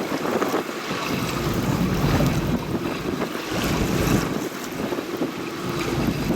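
Wind buffeting the microphone over the wash of sea water, a steady rumbling noise that swells and dips.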